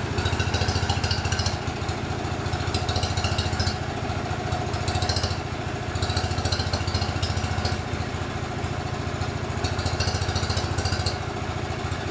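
Sawmill machinery running: a steady engine drone with an even, fast low pulse, overlaid by bouts of higher hissing noise that come and go every second or two.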